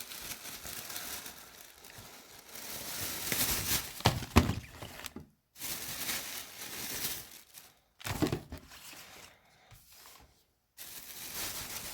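Foil Pokémon booster pack wrappers being handled, with crinkling and tearing in uneven strokes that are louder in a few places.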